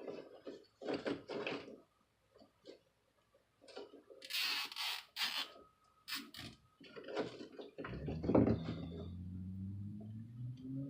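Clicks and knocks of hands working a chain and zip tie, with a quick ratcheting rasp about four seconds in as the zip tie is pulled tight. From about eight seconds a steady low hum with several pitches sets in and continues.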